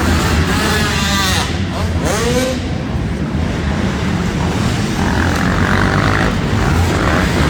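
Motocross dirt bikes racing, their engines revving up and down, with pitch rising and falling sharply about one to two and a half seconds in.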